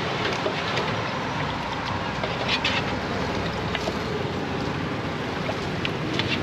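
Busy market ambience: a steady wash of noise with scattered clinks and clatter, loudest about two and a half seconds in and again near the end.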